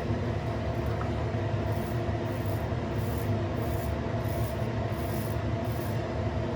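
Stainless steel safety razor scraping through lathered stubble in short strokes, over a steady low hum.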